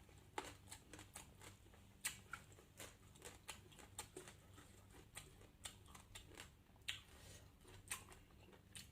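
Faint, irregular clicks and small taps of someone eating: utensils and food against a plate, and chewing.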